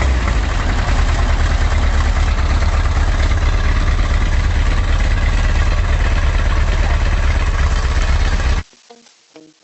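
VW T3 van's flat-four engine running steadily just after starting, with its exhaust muffler fitted: a loud, even low rumble. It cuts off suddenly near the end.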